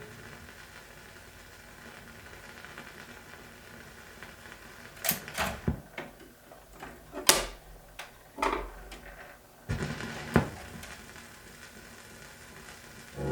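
Faint surface hiss of a 78 rpm record transfer in the gap between songs, then a cluster of sharp mechanical clicks and knocks from about five to ten and a half seconds in.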